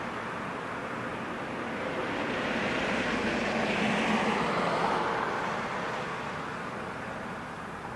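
A road vehicle passing by: its noise builds to a peak about halfway through and then fades away.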